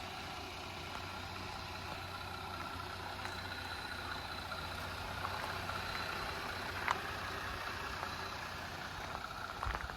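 Jeep Gladiator's engine idling steadily, with a single sharp click about seven seconds in.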